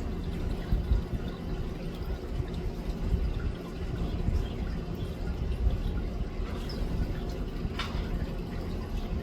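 Steady low rumbling background noise with a faint hum, and one short sharp sound near the end.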